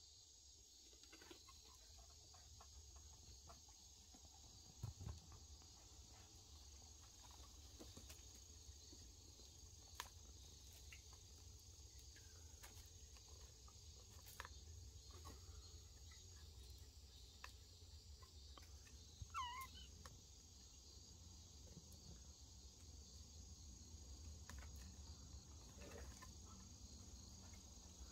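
Faint, steady chirring of crickets, with a low background rumble. About two-thirds of the way through comes one short, high, wavering call, and a few faint clicks are scattered through.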